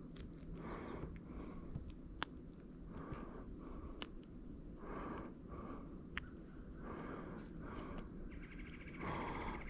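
Insects trilling steadily at a high pitch, with faint rustling and a few sharp clicks. A fine rapid ticking comes in near the end.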